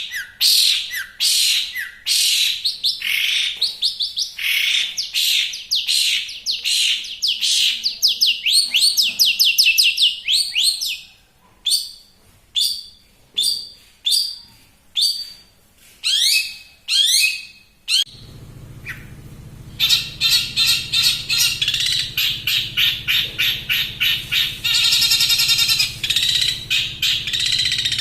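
Long-tailed shrike singing: a fast run of rising whistled sweeps, then spaced single notes. At about 18 s a different recording begins, with a steady low hum under rapid, evenly repeated chattering notes.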